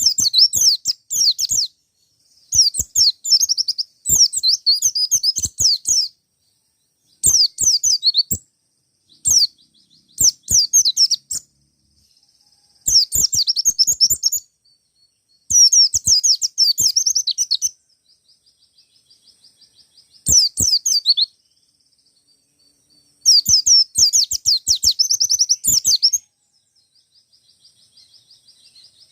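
White-eye (pleci), a wild-caught bird, singing rapid, high twittering phrases of about one to three seconds each, repeated over and over with short pauses, with faint soft twittering in some of the gaps.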